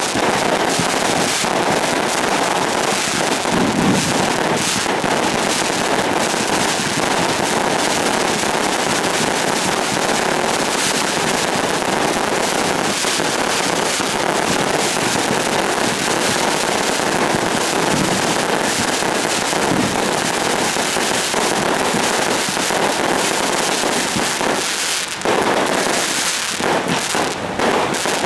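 Fireworks going off without a break: a dense, loud crackle of rapid bangs, with a few heavier thumps among them and a short lull about 25 seconds in before more separate bangs.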